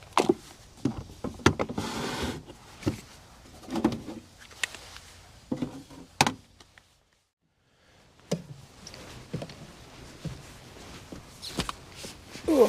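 Scattered knocks, clicks and rustling of things being handled, with a second of dead silence about seven seconds in.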